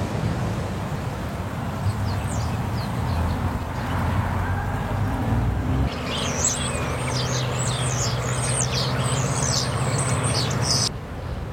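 Birds chirping in quick, high calls over a steady low hum and wind noise; the chirps cut off abruptly near the end.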